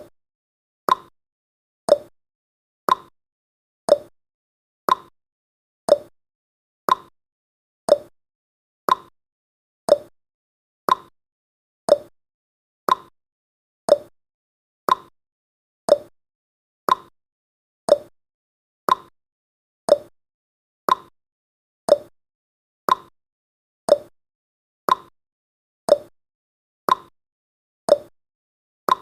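Countdown timer's clock-tick sound effect, a sharp tick once a second, marking off each second.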